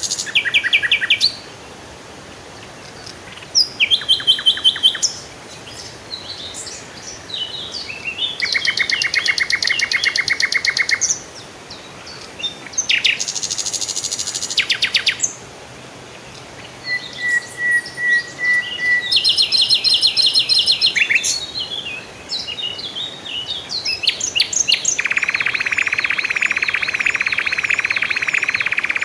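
Songbirds singing one after another: fast chirping trills, a short run of even whistled notes about halfway, and near the end a long buzzing trill under warbling notes.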